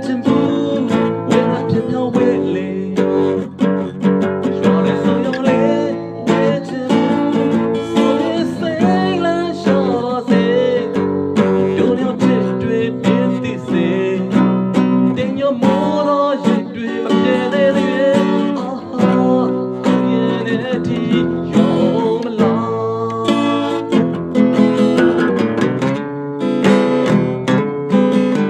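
Burmese-language song with acoustic guitar and a sung vocal.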